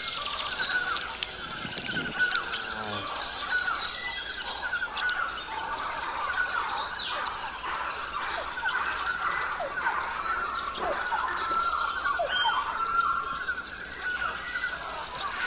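Several wild birds chirping and singing at once, a dense chorus of short, rapidly repeated calls and trills with a few falling notes.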